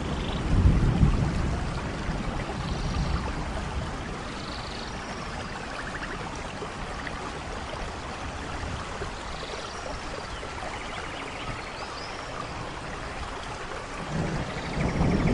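Steady rain, with low rumbles of thunder swelling about a second in and again near the end. Faint short chirping calls sound now and then above the rain.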